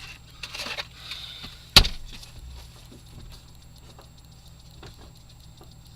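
A single sharp thump about two seconds in, with faint rustling before it and scattered faint clicks after, over a low steady hum.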